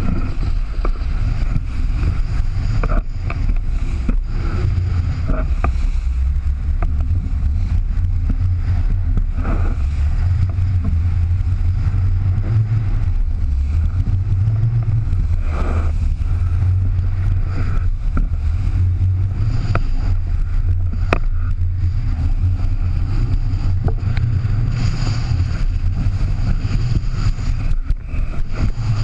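A boat's engine running with a steady low drone, with a few scattered knocks and clicks.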